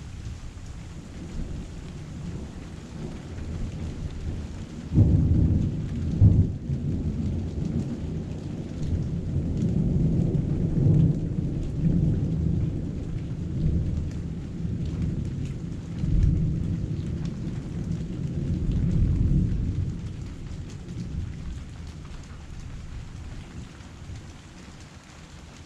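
Heavy rain falling steadily, with thunder breaking suddenly about five seconds in and rolling on as low rumbling for some fifteen seconds before fading.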